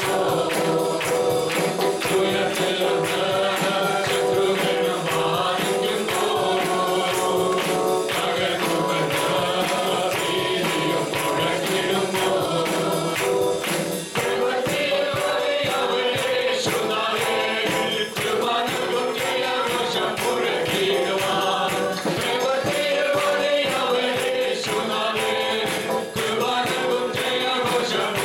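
Live congregational worship music: a group of voices singing a gospel praise song over a band, with a tambourine keeping a steady beat.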